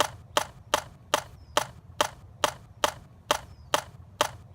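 Sharp hard clacks repeating in a very even rhythm, about two to three a second.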